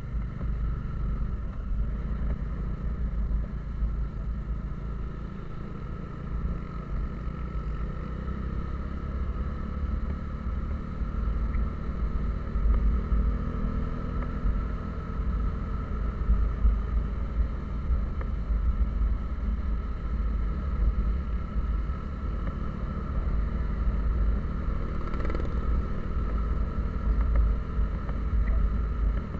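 A vehicle on the move: steady engine drone with heavy low road and wind rumble.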